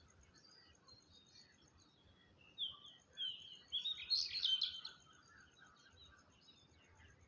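A bird calling: two short falling chirps about two and a half seconds in, then a louder burst of rapid chirps lasting about a second, over faint background bird chatter.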